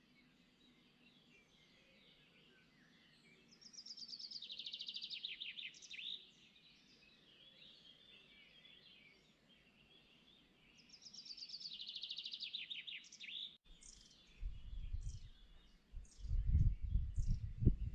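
A songbird sings two fast trilled phrases that fall in pitch, with faint chirps from other birds around them. After a sudden break, short high chirps continue over a loud, irregular low rumble.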